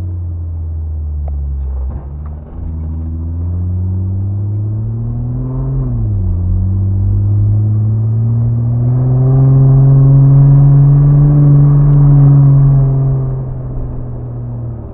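Truck engine pulling under load off-road: the pitch climbs, drops sharply about six seconds in as it shifts gear, then climbs again and is loudest in the middle of the second half before easing off near the end.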